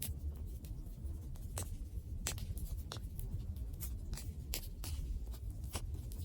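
Wood campfire crackling: irregular sharp pops and snaps, about two a second, over a low, steady rumble of burning.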